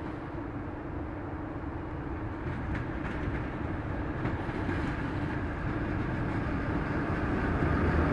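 A train approaching, its steady rumble and low hum growing gradually louder, with a few faint clicks over it.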